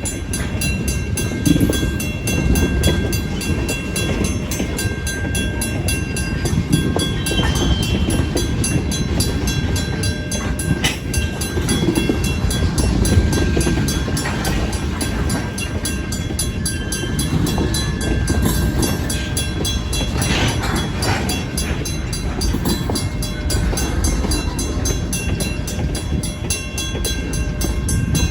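Freight cars being shoved through a grade crossing, their wheels rumbling and clacking over the rails, with the crossing's first-generation WCH mechanical bell ringing steadily over it. A brief screech of wheels on rail about twenty seconds in.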